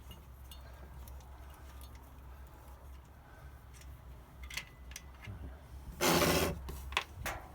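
Small clicks and rubbing of hand tools working on the metal casing of a diesel heater being taken apart, with one brief loud scrape about six seconds in. A steady low rumble of wind runs underneath.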